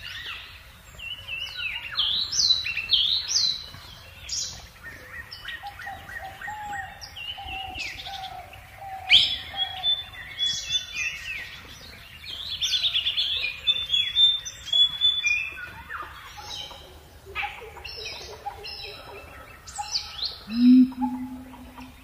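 Several birds chirping and whistling, many short overlapping calls and falling notes of different kinds; a lower call joins near the end.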